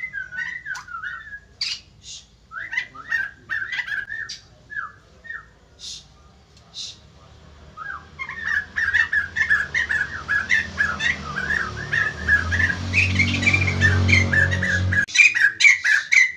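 White-crested laughingthrush singing a run of short, sliding whistled and chattering notes. From about halfway the notes come thick and fast, as other birds join in, over a steady low hum that cuts off suddenly near the end.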